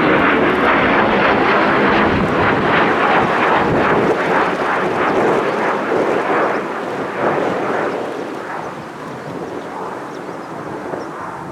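Military jet aircraft passing low over the runway, its engine noise a loud, rough roar that fades away over the second half as it goes off.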